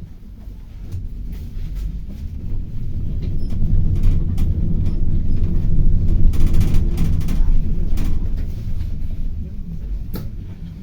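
City bus heard from inside the cabin, its low running rumble building as it gathers speed, peaking about two-thirds of the way through and easing off near the end, with scattered short rattles and clicks from the cabin.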